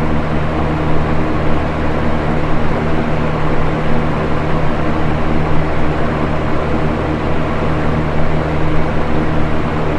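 Box fan running steadily: an even rush of moving air over a low motor hum.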